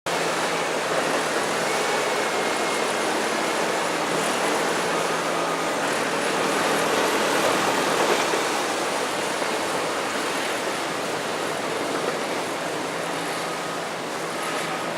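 Bulldozer's diesel engine running at a distance with a low, steady hum, under a constant rush of noise.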